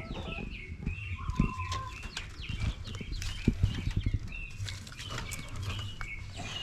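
Birds chirping: short high calls repeating every half second or so, over low rumbling with scattered knocks and rustles.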